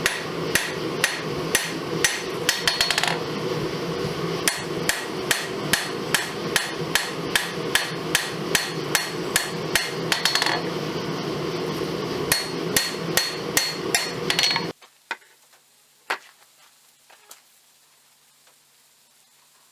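Hand hammer striking hot spring steel on an anvil in a steady rhythm of about two to three blows a second, each with a bright metallic ring, over a constant background rush. The hammering pauses briefly twice, then everything cuts off abruptly near the end, leaving only a few faint knocks.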